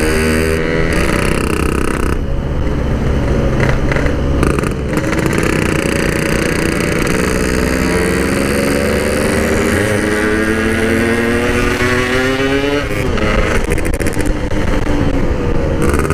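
Yamaha RX-King's two-stroke single-cylinder engine running under way through its stock-type packed exhaust. Its pitch climbs steadily for several seconds as the bike accelerates, then drops sharply about thirteen seconds in.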